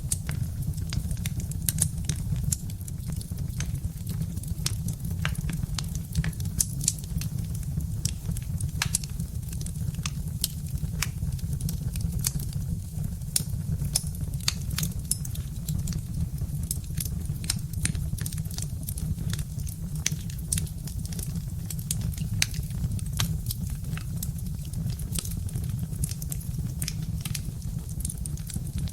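Birch-wood fire crackling, with frequent sharp, irregular pops over a steady low rumble.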